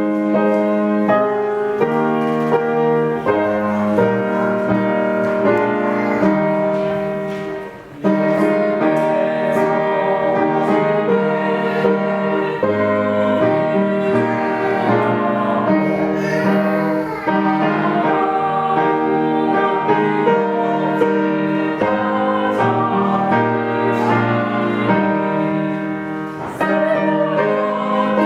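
A hymn played on piano, with voices singing along. The music pauses briefly about eight seconds in.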